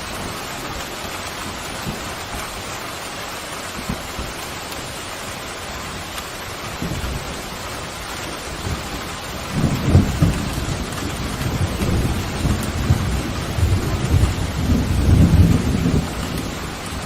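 Steady heavy rain with a long rolling thunder rumble building from about seven seconds in, loudest for the last several seconds before easing off near the end.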